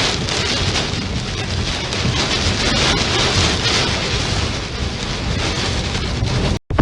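Heavy rain pouring down steadily, with a brief cut to silence near the end.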